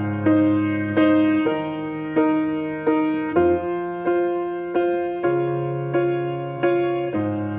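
Solo piano playing slow, evenly paced chords, a new chord struck about every two-thirds of a second and left to ring and fade.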